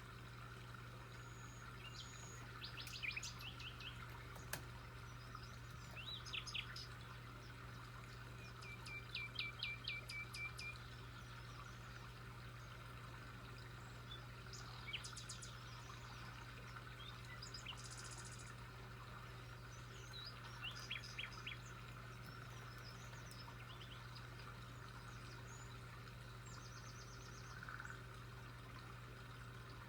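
Songbirds calling now and then, in short trills of quickly repeated high notes with gaps of a few seconds between them, over a steady low hum.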